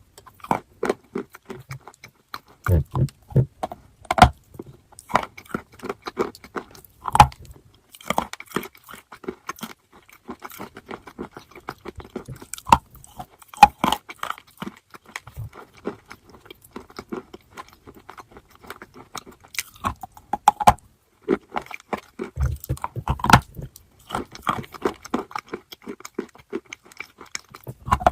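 Close-up crunching of hard, crunchy chalk being bitten and chewed: irregular clusters of dry, brittle cracks, with a few louder bites spread through.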